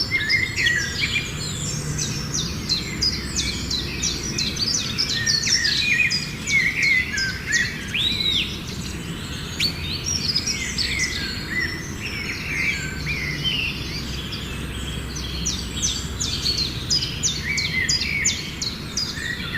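Small birds chirping busily: many short, high chirps and quick falling notes overlap, over a steady low background rumble.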